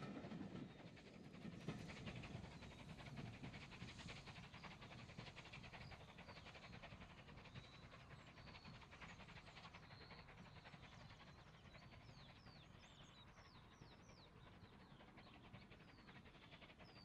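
A steam-hauled train's rumble fades away over the first few seconds. Faint birdsong follows: short high chirps through the second half.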